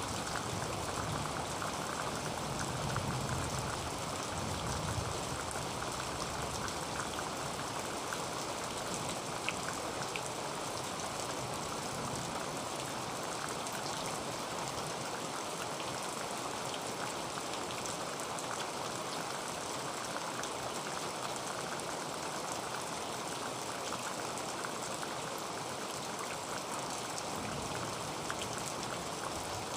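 Heavy rain falling steadily on a tin roof: a dense, even hiss with fine individual drop ticks on the metal. A low rumble underneath fades out within the first few seconds.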